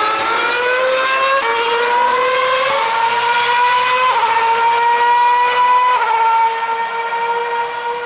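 Formula 1 car's high-revving 2.4-litre V8 engine accelerating hard through the gears. The pitch climbs and then drops sharply at about four quick upshifts, and the note fades slightly near the end.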